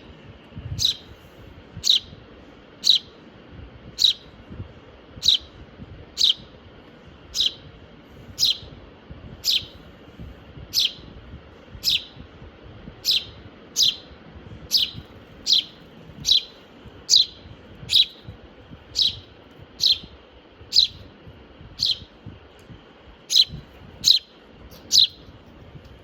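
A young hand-raised bird chirping over and over, one short, sharp, downward-sliding chirp about once a second. The owner takes its constant chirping for demanding food.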